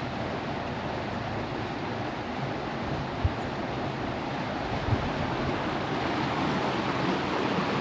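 Floodwater rushing and flowing steadily in a continuous wash of noise, with two brief low thumps about three and five seconds in.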